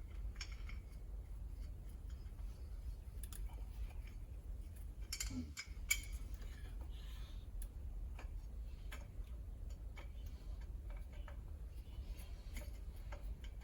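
Scattered small metallic clicks and taps of hub parts and hand tools being handled while a truck's front wheel hub is reassembled. The busiest and loudest clicks come about five to six seconds in, over a steady low hum.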